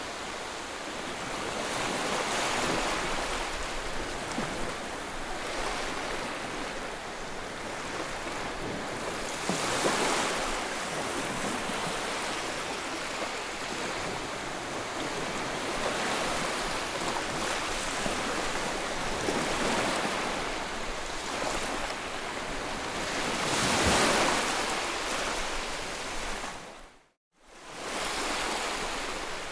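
Ocean waves breaking on a shore: a steady wash of surf that swells and falls back several times. Near the end it cuts out for about half a second, then comes back.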